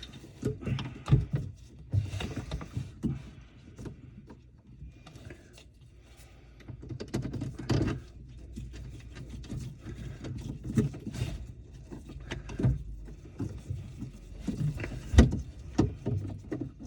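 Irregular knocks, clicks and scraping of hand work on kitchen sink drain plumbing, parts and tools handled and set down, with a few sharper knocks spread through.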